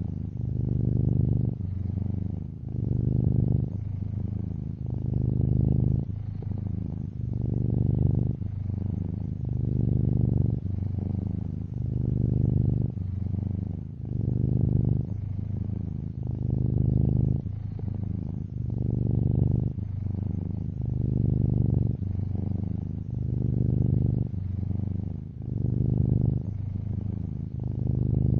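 Domestic cat purring close up, a low steady rumble that swells and eases in turn about every two seconds.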